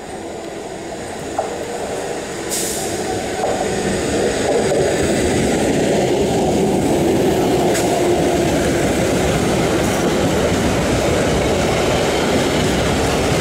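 Old-model EMU electric local train running past close by, its wheel and coach rumble growing louder over the first few seconds as it approaches, then holding loud and steady as the coaches go by, with a few sharp clicks from the wheels on the rails.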